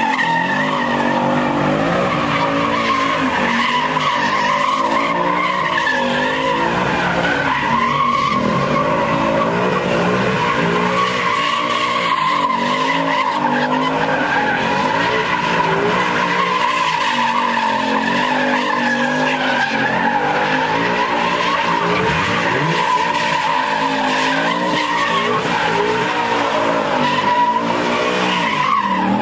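A car doing donuts: its engine revs hard, rising and falling over and over, while the tyres screech without a break.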